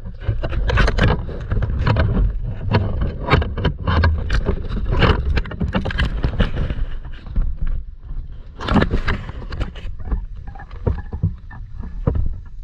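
Boat on the water: a steady low rumble with many irregular sharp knocks and splashes, busiest in the first half.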